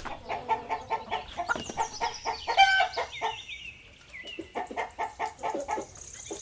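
Rooster clucking in rapid short clucks over and over, with a few longer, louder calls about two to three seconds in.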